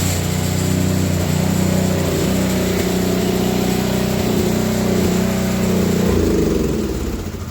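A motor or engine running steadily with a low hum, its pitch shifting slightly about two seconds in and again near six seconds, then fading near the end.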